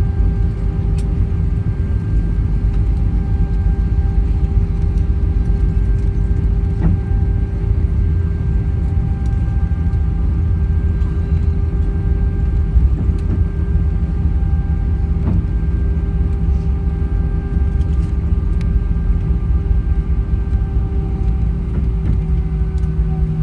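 Airbus A320 cabin noise: a steady low rumble with several steady engine tones held over it, heard from a passenger seat.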